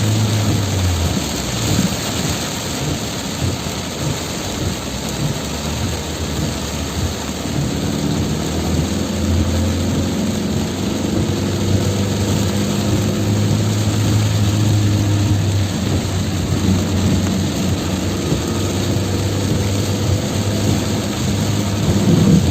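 Heavy rain hissing steadily, with a vehicle engine's low hum underneath that drops away about a second in and comes back from about six seconds on.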